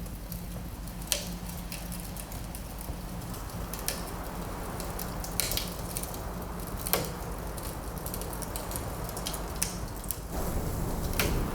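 Wood fire crackling in a fireplace, a few sharp pops scattered over a steady low rumble, with a louder hiss rising near the end.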